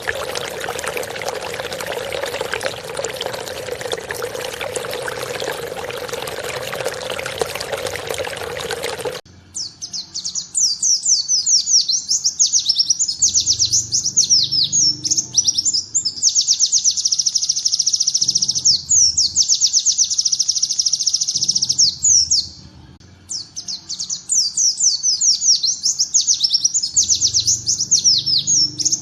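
A steady rushing, water-like noise that cuts off abruptly about nine seconds in. It gives way to a pleci (white-eye) singing rapid, high trilling bursts in the ciblek (bar-winged prinia) style, with one short pause near the end.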